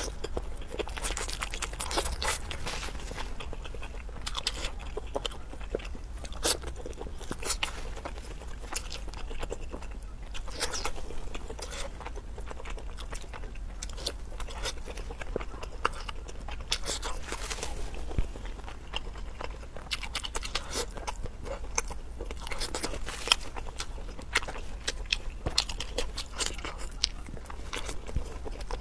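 Close-up eating sounds of a woman biting and chewing seafood: irregular wet mouth clicks and small crunches, over a faint steady low hum.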